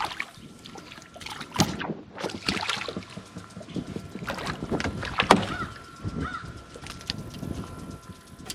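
Irregular knocks and clicks of fishing gear handled in a small boat, the sharpest about a second and a half in and again past the middle, over a faint steady high tone.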